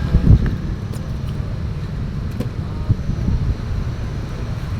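Steady low rumble of vehicle and road traffic noise, with a knock about a third of a second in and a smaller one near three seconds.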